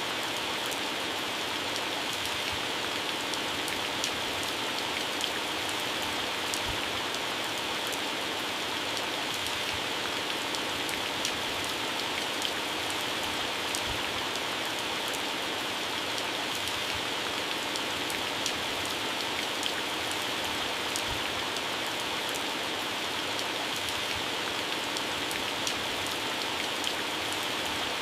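Heavy rain falling steadily on plants and grass, a dense even hiss with scattered sharp patters of drops hitting leaves.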